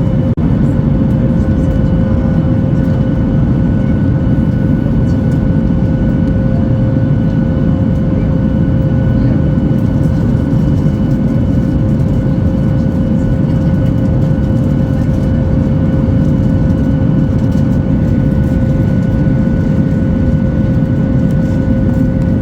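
Steady cabin noise inside a Boeing 737-8200 airliner: a loud, even rumble with a thin steady whine over it.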